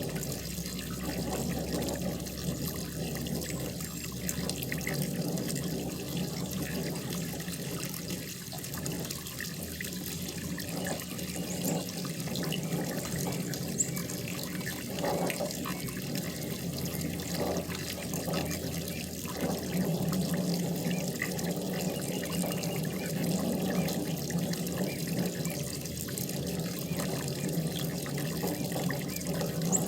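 Steady running and splashing water from a koi pond's waterfall or fountain, a continuous gurgling flow.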